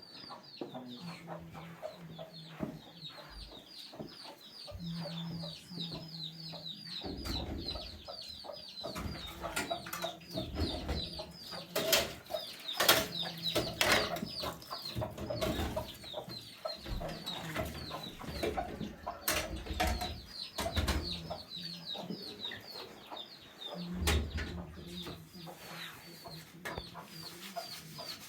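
Chickens clucking, with a fast run of short, high peeping calls throughout. Scattered knocks and clatter are loudest about halfway through.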